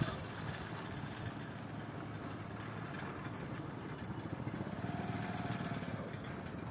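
An engine running steadily with an even low pulsing, and a faint higher tone for about a second near the end.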